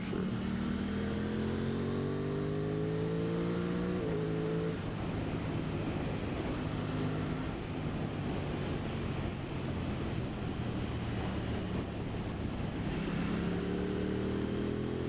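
2023 Aprilia Tuono 660's parallel-twin engine pulling through the revs under acceleration, with a rising pitch. It shifts up about four seconds in, runs steadier, then climbs in pitch again near the end.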